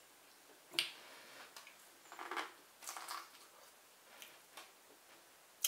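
Biting into and chewing boiled corn on the cob: a handful of short, irregular crunches and mouth clicks.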